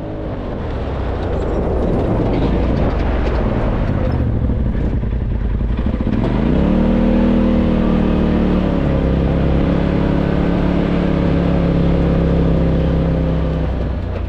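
Polaris RZR side-by-side's engine running at speed under a steady rush of wind and road noise. About six seconds in, the engine note climbs and then holds steady.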